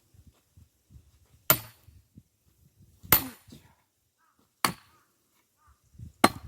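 Axe splitting firewood logs: four sharp chops, one about every second and a half.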